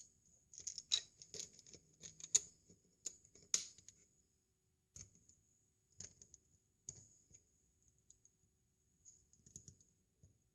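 Plastic Lego bricks clicking and rattling as they are handled and pressed together, in irregular clusters of sharp clicks, with a faint steady high tone underneath.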